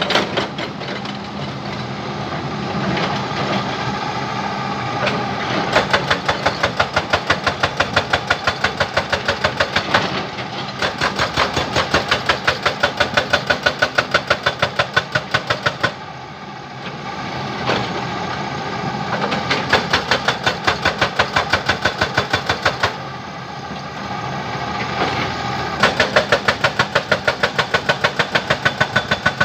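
Jackhammer pounding in four runs of rapid, evenly spaced blows, about four a second and several seconds at a time, with a machine engine running steadily in the pauses between runs.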